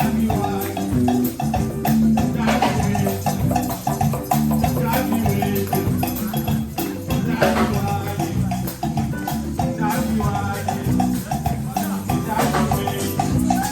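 Live band music with a busy percussion groove: shakers and hand percussion over pitched instruments, from a Congolese percussion trio.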